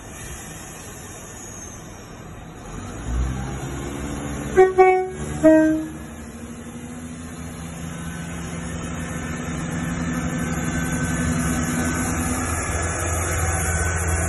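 Northern Class 170 Turbostar diesel multiple unit sounding its two-tone horn about four and a half seconds in, a short higher note then a short lower one. Its rumble then grows louder and steady as it passes.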